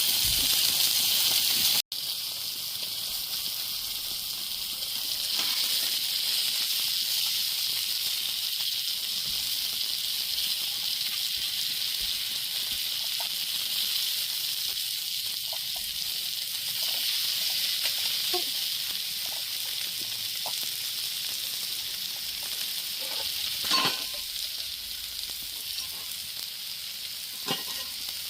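Food sizzling steadily in a hot pan, with a few light clicks of a utensil near the end.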